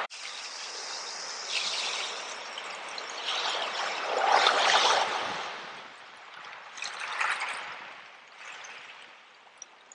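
Ocean waves washing in and out, with the biggest wave breaking about four seconds in, two smaller washes after it, and then a fade.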